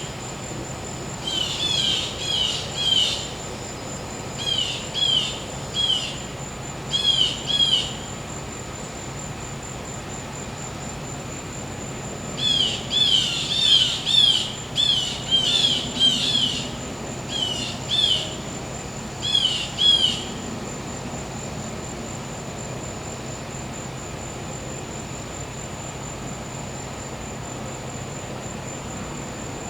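A bird gives short, sharp chirps in quick runs of two to four, over and over, stopping about twenty seconds in, over the steady high trill of crickets. A faint low hum sits underneath.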